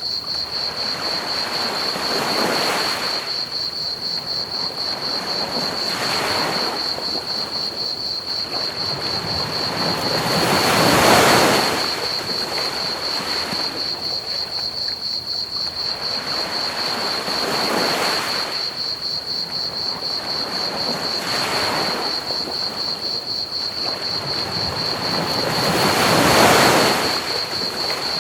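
Ocean waves breaking and washing up the beach in slow swells about every four seconds, two of them bigger, near the middle and near the end. Under them runs a steady, high-pitched chorus of crickets chirping in rapid pulses, over a constant hiss of pink noise.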